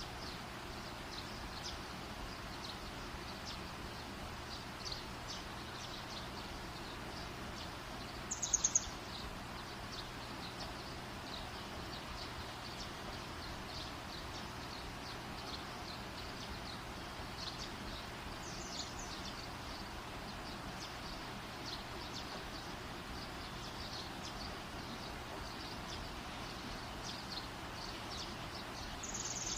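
Campfire burning: a steady low hiss with many faint scattered high crackles, and a brief sharp cluster of louder high clicks about eight seconds in and again near the end.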